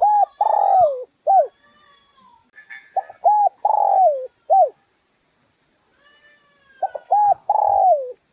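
Spotted dove cooing: three phrases a few seconds apart, each a couple of short coos and a longer coo that falls in pitch. This is the male's urging coo, used to rouse and lure wild males.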